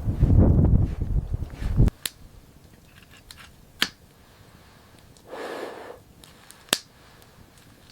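Crunching footsteps through snow that cut off abruptly about two seconds in. Then a quiet room with three sharp snaps and a brief soft rush.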